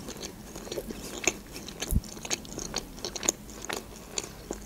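Close-miked chewing of a bite of salmon and cream-cheese sushi roll: a run of small, sharp mouth clicks and smacks.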